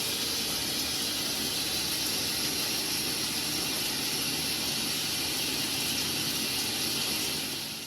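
Shower running: water spraying steadily from the shower head onto the floor, a constant even hiss that fades out near the end.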